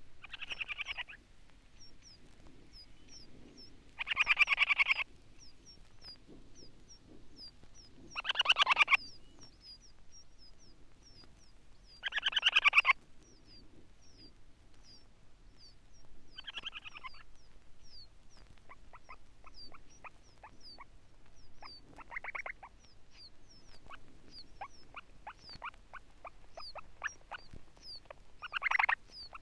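Sanderling display song: harsh, buzzy, frog-like rattling trills about a second long every few seconds, with runs of quick ticking notes between them. Thin, short, high chirps repeat throughout.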